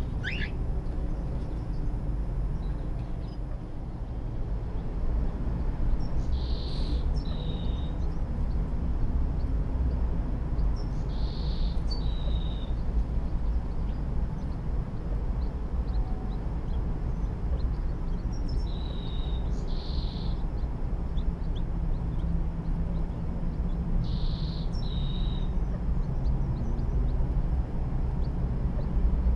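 A bird repeats a short, high two-part call about every five seconds, over a steady low rumble. A single rising chirp comes right at the start.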